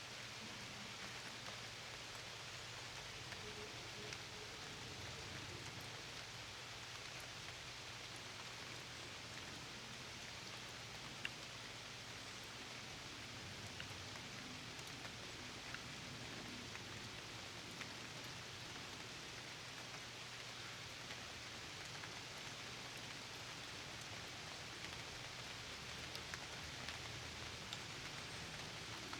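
Steady rain falling, an even hiss with scattered individual drops ticking, and a faint low hum underneath.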